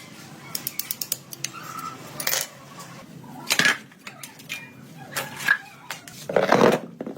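Small metal parts and tools being handled, a string of sharp clicks and clinks with a few short ringing tones, and a short harsh rasp about six seconds in.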